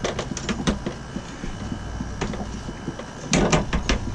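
Irregular metallic clicks and knocks of hand tools working on a 3/8-inch copper water line, a few near the start and a denser cluster near the end, over a steady low hum.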